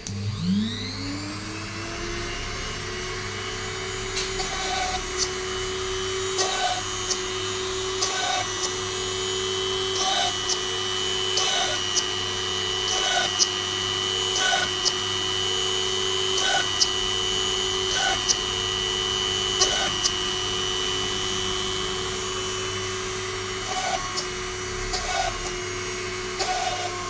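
Small DC motor of a homemade PCB drill spinning up with a rising whine, then running steadily at about 10,000 rpm with a 0.9 mm bit. Brief sharp sounds come about every second and a half, then again near the end, as the bit is pressed into the board to drill holes.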